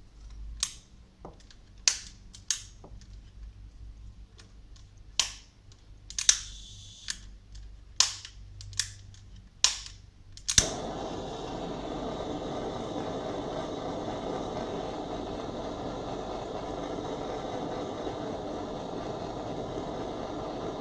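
Handheld butane kitchen blow lamp (cooking torch): its piezo igniter clicks about ten times before the flame catches about ten and a half seconds in, then the lit torch gives a steady hiss.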